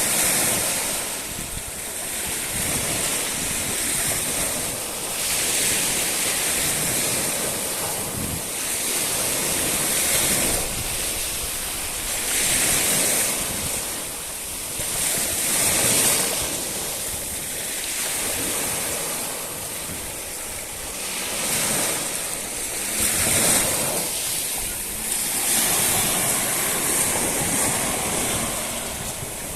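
Sea waves breaking on the shore, the wash swelling and falling back every few seconds.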